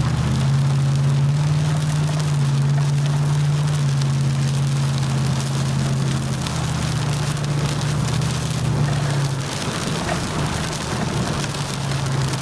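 Heavy rain pelting a truck's windshield and body, heard from inside the cab, over the steady low hum of the truck's engine as it drives; the engine hum fades back about three quarters of the way through.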